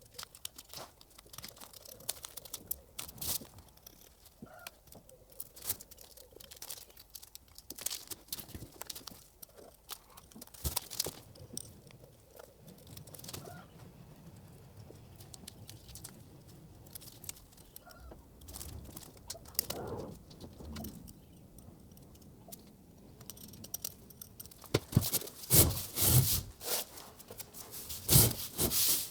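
Irregular small clicks, light knocks and short rustling scrapes of hand work, with a run of louder knocks near the end.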